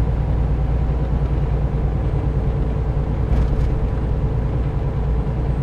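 Steady engine and road noise inside a semi truck's cab while cruising, a constant low drone, with two faint ticks about three and a half seconds in.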